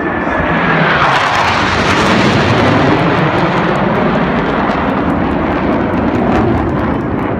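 Blue Angels F/A-18 Hornet jet, with its twin turbofan engines, flying past: loud jet noise that swells over the first second and then holds, with a high whine that drops in pitch about a second in as the jet passes.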